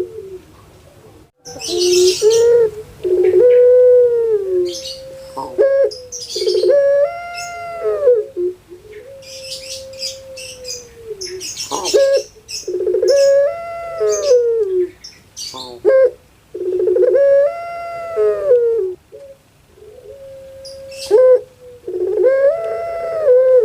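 Puter pelung (Barbary dove, Streptopelia risoria) cooing its long call over and over: rising-and-falling coo phrases, some ending in a long held note, with high chirps from small birds between them.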